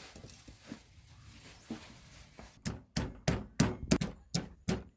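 Hard, evenly spaced strikes of food preparation, about three a second, starting a little over halfway in, after a faint hiss with small ticks.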